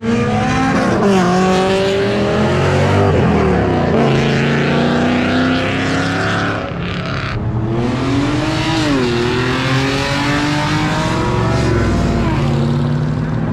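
Car engine revving and accelerating, its pitch climbing and dropping several times.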